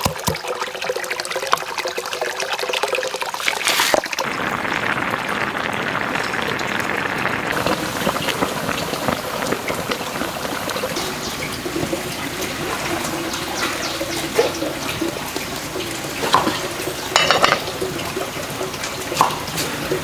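Steady sound of running, splashing water, which fills out about four seconds in, with a few short knocks near the end.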